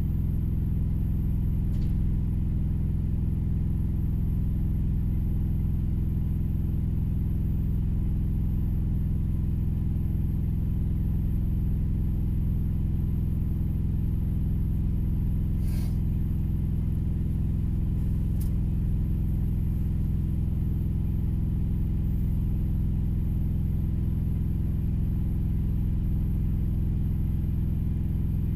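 Steady low rumble of an idling engine, heard from inside a vehicle's cab, with a few faint clicks.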